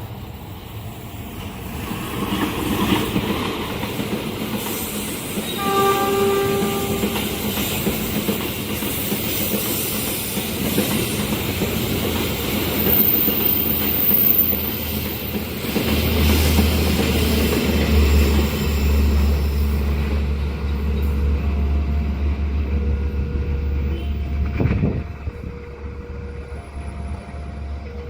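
Diesel-hauled passenger train passing over a level crossing. The horn sounds briefly about six seconds in. Wheels clatter over the rails, with a deep engine drone from about sixteen seconds until the train clears. The crossing's warning alarm alternates between two notes at the start and again after the train has passed.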